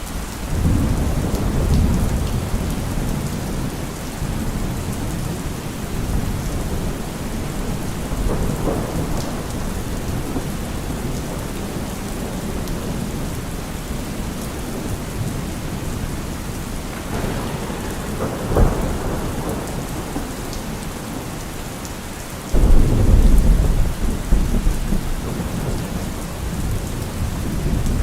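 Heavy rain drumming on a car roof through a thunderstorm, with thunder rolling in at the start. A sharp crack of thunder comes about two-thirds of the way through, and a louder clap of thunder breaks suddenly near the end.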